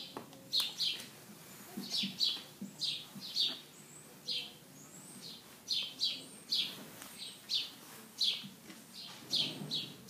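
Small birds chirping: short, high chirps, often in quick pairs, repeating about every half second.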